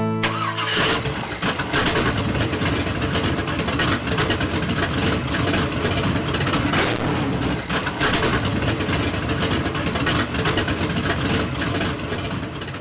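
Car engines running with some revving, loud and unsteady, fading out near the end.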